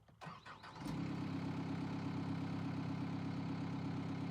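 Yanmar T210 tracked skid steer's diesel engine idling steadily, coming in under a second in.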